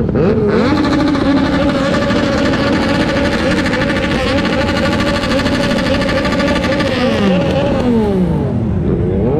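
Motorcycle engine rising quickly in pitch, holding a steady high note for about six seconds, then dropping away near the end.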